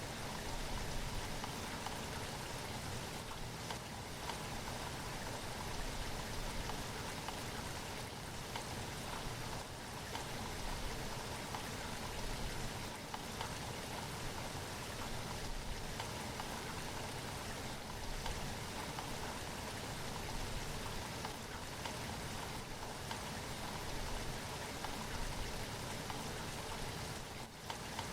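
Steady rain falling, an even wash of drops, dipping briefly just before the end.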